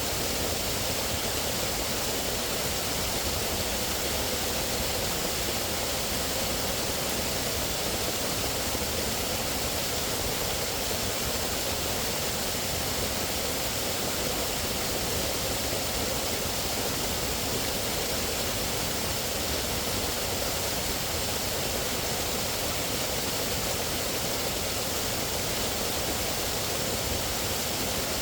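Steady, unbroken rushing noise of outdoor nature ambience, even in level throughout with no distinct calls or events standing out.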